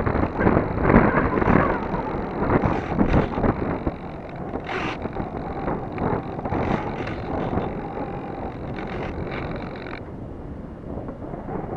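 Wind buffeting the microphone of a cheap keychain camera on an RC glider in flight, gusting louder and softer. A faint steady high whine runs under it and cuts off about ten seconds in.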